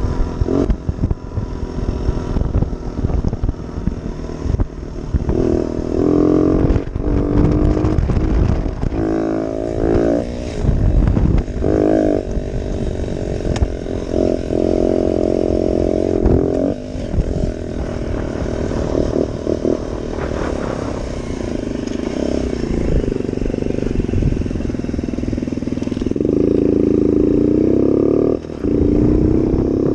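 Yamaha TT-R90 dirt bike's small four-stroke single-cylinder engine being ridden, its pitch rising again and again under throttle and dropping back between pulls.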